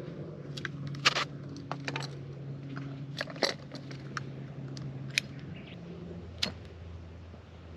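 A scatter of sharp clicks and clinks, like small objects being handled, over a steady low hum that drops in pitch about six and a half seconds in.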